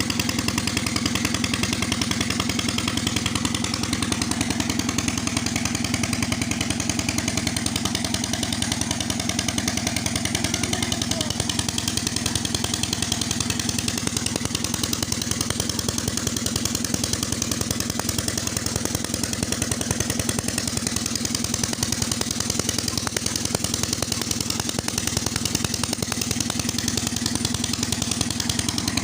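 Old Petter diesel engine running the tubewell pump at a steady speed, its even rapid beat unbroken throughout.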